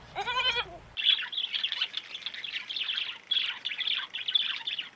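A short wavering bleat, then, from about a second in, many small birds chirping together in a dense, continuous chatter of high peeps.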